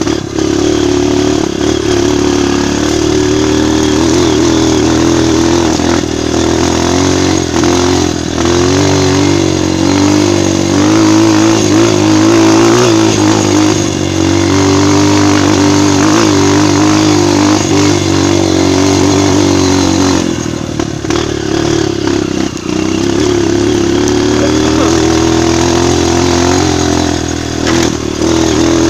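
Single-cylinder four-stroke trail motorcycle engine running under load, its pitch rising and falling with the throttle. The sound eases briefly about twenty seconds in, then picks up again.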